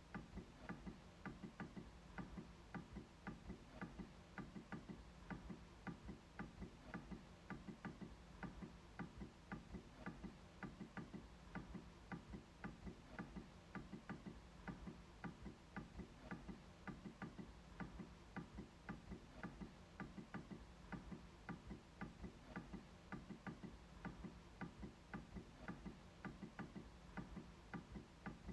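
MacBook trackpad being clicked over and over: faint, evenly spaced clicks, a few a second, without pause.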